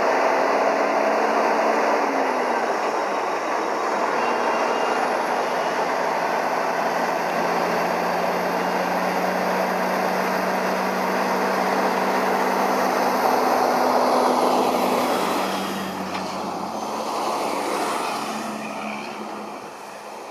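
Steady vehicle running noise that dies down over the last few seconds.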